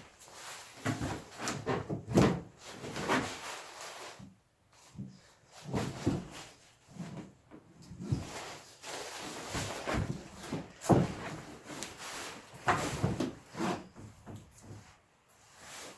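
Irregular wooden knocks, bumps and short scrapes of a log and wooden jig being handled and slid about.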